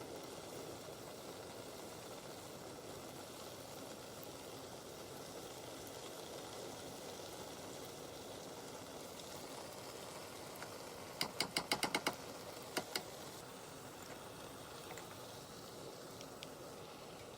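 Steady low hiss of a pan of tomato curry cooking, with a quick run of about seven sharp taps about eleven seconds in and two more just after.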